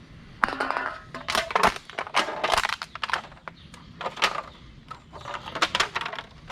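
Crunching and crinkling of litter being picked up and handled, a quick run of sharp crackles through most of the stretch.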